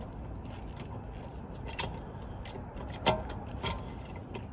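Metal clinks and clicks of lug nuts being fitted by hand onto a truck wheel's studs, with three sharper knocks about two, three and three and a half seconds in.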